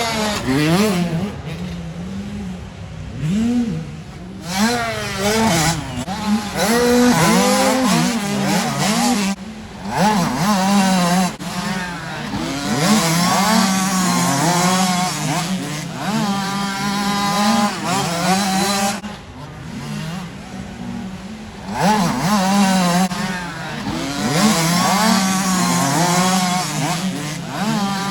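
Motocross bikes racing: several dirt-bike engines revving high at once. Their pitch climbs and drops again and again as the riders accelerate, shift and back off, and the sound swells and fades as bikes come through.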